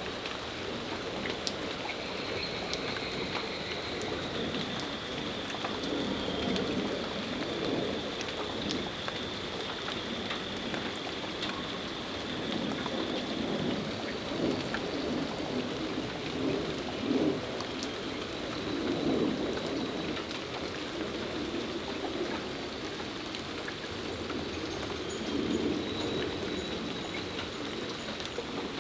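Steady rain shower falling, with individual drips ticking close by now and then.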